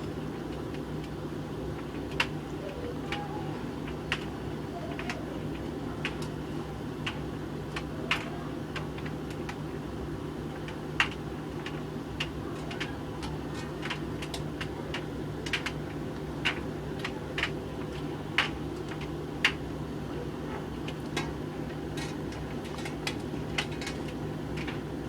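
Hoover VHV680C tumble dryer running, with a steady motor and drum hum. Irregular sharp clicks come every second or so as the tumbling load of coloured clothes knocks against the drum.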